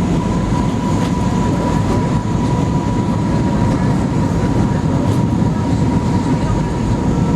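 Steady cabin noise inside an Airbus A320-212 airliner: a deep, even rumble of engines and airflow with a thin steady whine above it.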